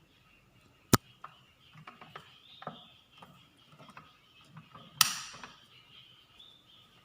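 Two sharp clicks about four seconds apart, the second trailing off briefly, with fainter scattered clicks and taps between them, over a faint steady forest background of insects.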